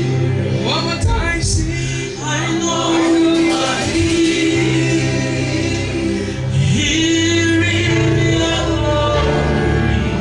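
Gospel worship music: long held chords with voices singing over them, wordless or not made out as words.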